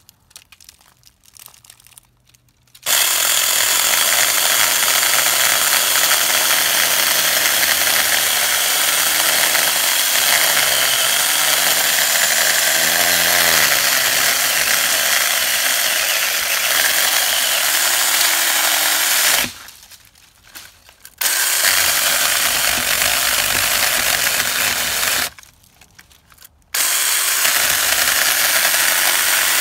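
Small cordless handheld mini chainsaw cutting through a roughly 4-inch tree limb, its chain no longer as sharp as new. It starts about three seconds in, runs steadily, and cuts out briefly twice, in the last third and again near the end, before running on.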